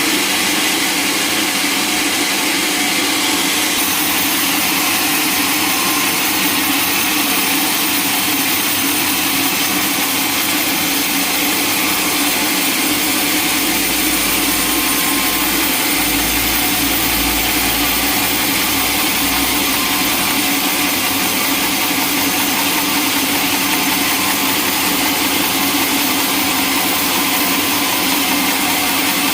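Sawmill machinery running steadily: a constant engine-like drone with no breaks, with a little more low rumble about halfway through.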